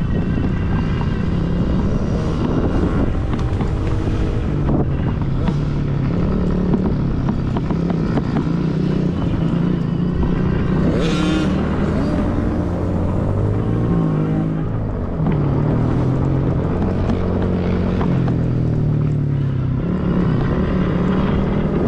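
Dirt bike engines running on a motocross track, the pitch repeatedly climbing and dropping as the riders rev and shift, with a brief hiss about eleven seconds in.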